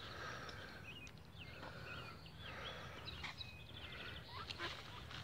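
Faint outdoor ambience with small birds chirping in short, high, repeated notes over a low steady background.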